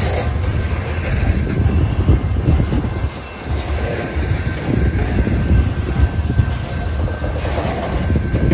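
BNSF grain train's covered hopper cars rolling past close by: a steady low rumble of steel wheels on rail with irregular clatter over the joints. The sound dips briefly a little after three seconds in.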